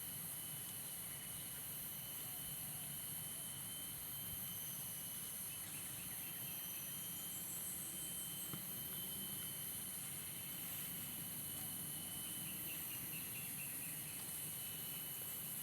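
Insects, crickets among them, calling steadily in a continuous high drone with one thin sustained tone, and a few short chirping trills about halfway through.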